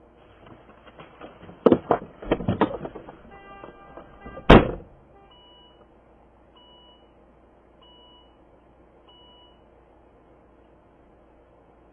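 Car collision: a run of heavy impacts and crunching over about three seconds, the loudest about four and a half seconds in. Then four short, evenly spaced electronic beeps.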